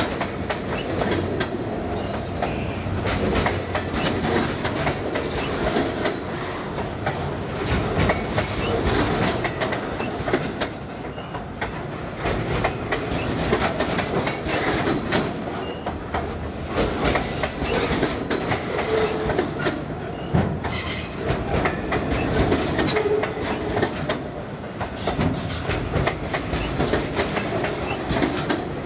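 Steel wheels of loaded pipe-carrying freight flatcars rolling past close by, a steady rumble with a continual clickety-clack of wheels over rail joints. Now and then there is a brief high wheel squeal.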